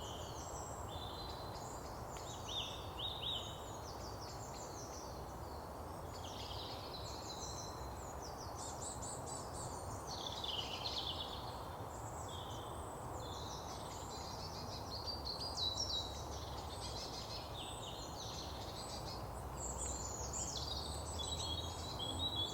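Several songbirds singing and chirping, short calls and warbles following one another throughout, over a steady low background hiss.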